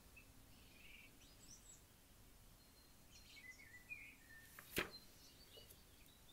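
Near silence with faint, scattered bird chirps, and one sharp click about five seconds in.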